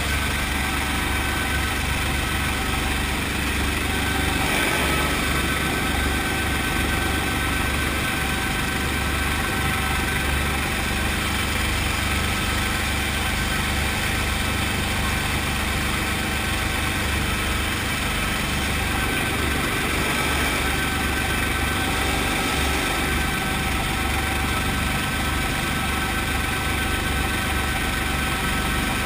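Brantly B-2B helicopter's four-cylinder piston engine and rotor running steadily, with a constant flutter low down.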